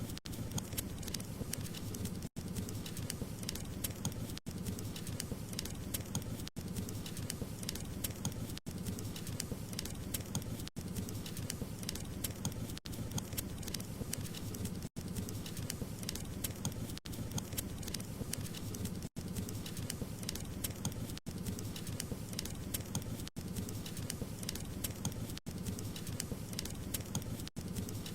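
Wood fire crackling in a fireplace: dense small pops and crackles over a steady low rumble, with a very brief cut in the sound about every two seconds.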